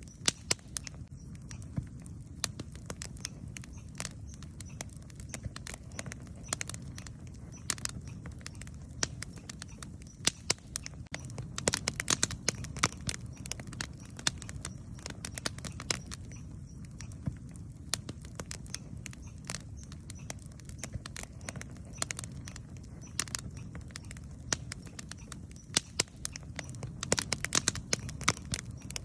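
Wood campfire burning: a steady low rumble of the flames with frequent sharp crackles and pops, in denser flurries about halfway through and again near the end.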